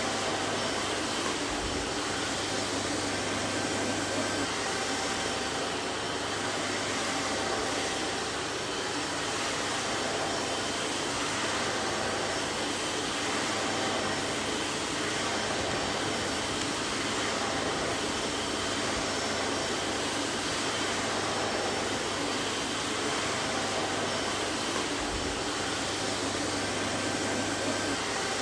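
Vacuum cleaner running steadily: an even motor-and-airflow noise with a low hum and no change in speed.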